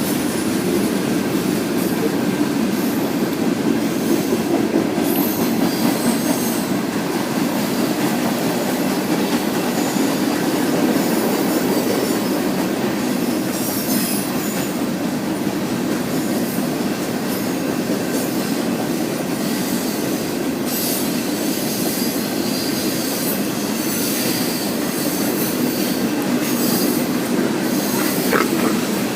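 Freight train rolling past: a steady rumble of wheels on rail, with clatter and faint high squeal from the cars.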